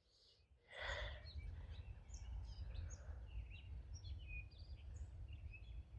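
Faint bird chirping: many short, high chirps scattered over a low, steady rumble of wind noise, starting after a moment of dead silence under a second in.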